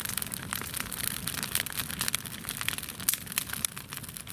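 Bonfire crackling, with a television and a tyre burning in it: a steady run of irregular sharp snaps and pops.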